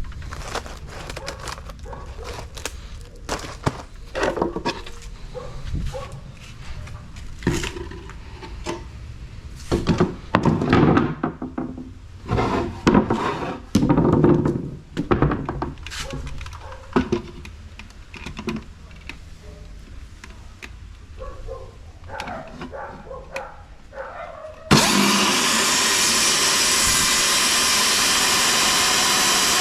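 Irregular knocks and thumps as plywood boards are handled and set up for cutting. About 25 seconds in, a power saw starts suddenly and runs steadily, cutting the plywood.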